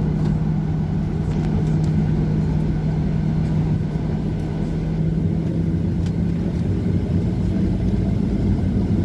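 Boeing 737-800 jet airliner running with a steady, unchanging hum over a dense low rumble, without any clear spool-up within these seconds.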